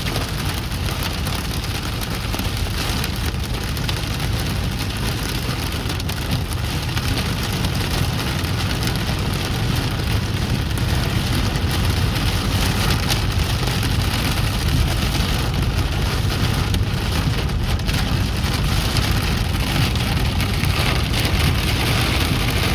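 Hail about an inch across and rain hitting the car's roof and windshield, heard from inside the cabin: a dense, steady clatter of many small impacts over the low rumble of the car driving.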